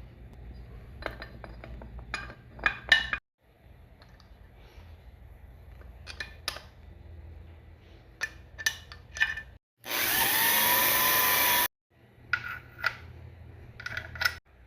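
Metal tools and transmission parts clinking and knocking, with a power tool running once for about two seconds near the middle, its pitch rising a little as it spins up.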